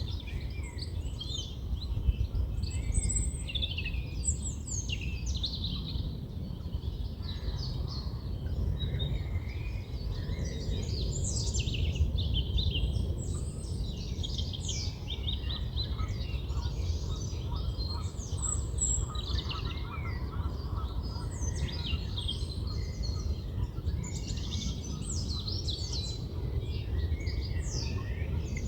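A chorus of several songbirds singing and chirping at once, dense short phrases overlapping throughout, over a steady low rumble.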